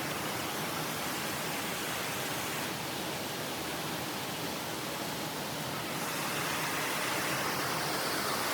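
Steady rushing of running water from a stream, an even hiss with no distinct splashes, rising slightly in level near the end.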